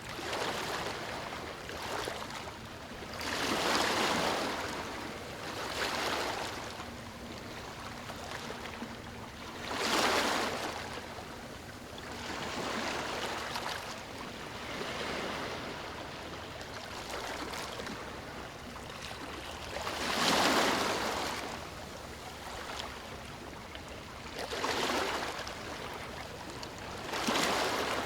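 Ocean waves breaking on a beach: a continuous wash of surf that swells and falls back every few seconds. The biggest waves come about four, ten and twenty seconds in.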